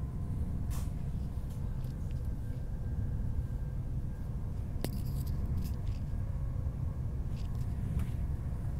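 Steady low rumble of a high-speed train heard from inside the passenger car while running at speed, with a few faint sharp clicks, the clearest about five seconds in.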